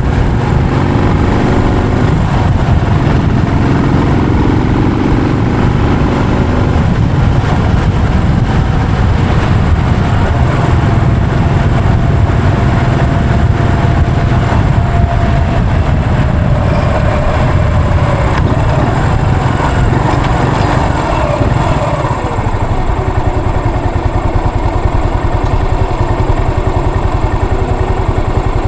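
Yamaha SR400's air-cooled single-cylinder four-stroke engine running as the motorcycle is ridden. About 22 seconds in it settles to a slower, more even beat.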